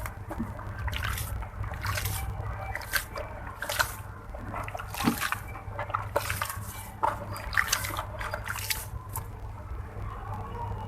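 Red sand-cement blocks dipped in water and crumbling: irregular wet crackles and small drips and sloshes, over a steady low hum.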